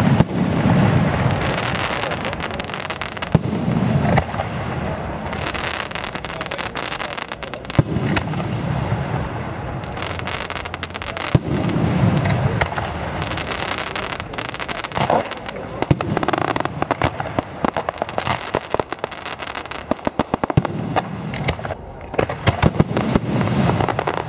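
Fireworks display: aerial shells bursting with deep booms about every four seconds, over dense crackling and popping that grows thickest in the second half.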